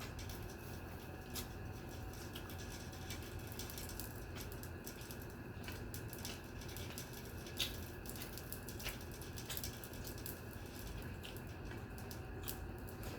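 Eating sounds from rice and curry: soft squishing and scattered small clicks, one sharper click about two-thirds of the way through, over a steady low hum.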